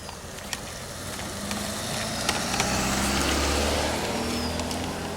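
A motor vehicle passing close by, its engine growing louder to a peak about three seconds in and then fading.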